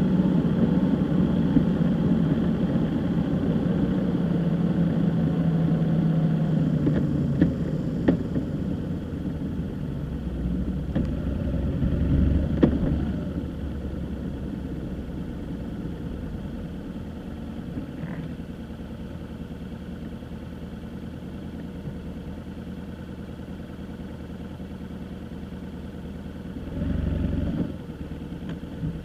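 Car engine running while driving, its pitch falling a few seconds in, with a few light clicks and a low rumble. After about 13 s it settles to a quieter, steady hum.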